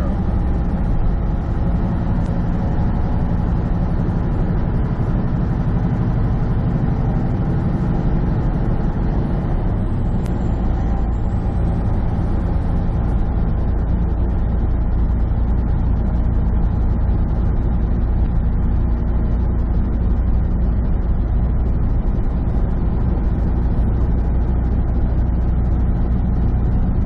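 Semi truck's diesel engine running steadily under road noise, heard from inside the cab while cruising at a constant pace.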